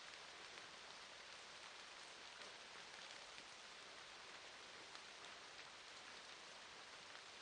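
Faint, steady rain falling, an even hiss with scattered small drop ticks.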